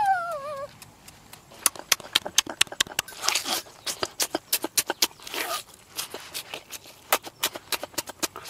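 Close-up chewing and lip-smacking while eating roasted chicken: an irregular run of sharp wet smacks, with two breathy rushes in between. A short hummed 'mmm' ends under a second in.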